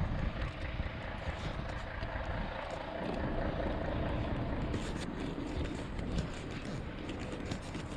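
Wind buffeting the microphone during a dust storm: a steady, gusty rumble.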